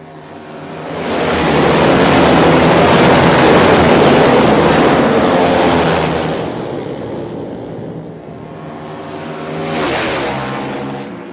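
Loud motor vehicle engine revving, swelling up to a long peak, easing off, then rising in pitch again in a second surge near the end.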